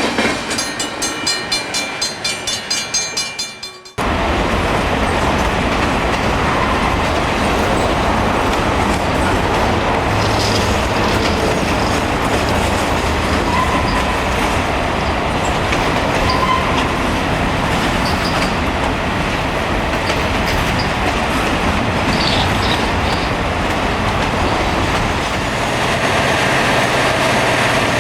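Rail-grinding train at work: steady, loud grinding noise from its grinding wheels on the railhead. It is preceded by a rhythmic pulsing sound that fades out over the first four seconds before the grinding noise starts suddenly.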